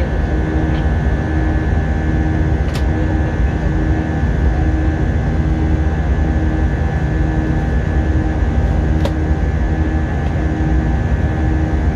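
Cabin noise of an Airbus A320-233 in flight, its IAE V2500 turbofans and the airflow making a loud, steady low rumble with a steady high whine. Two short clicks stand out, about three seconds in and again near nine seconds.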